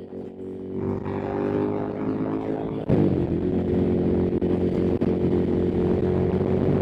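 Ducati Monster's V-twin engine running under way. About three seconds in it gets suddenly louder, its note dipping and then climbing steadily as the bike accelerates.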